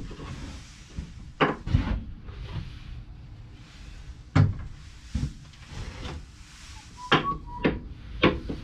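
A series of about seven separate knocks and clunks at irregular intervals, over a faint hiss, with a brief thin tone a little past seven seconds in.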